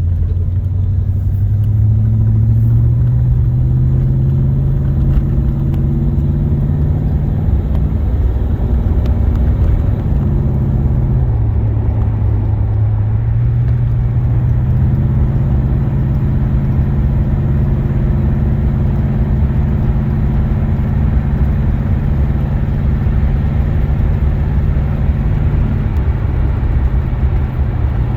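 A 1976 Oldsmobile Cutlass Salon's 455 Rocket V8 running steadily at cruising speed with road noise, heard from inside the cabin. The engine note dips in pitch a little before the middle, then rises again a few seconds later.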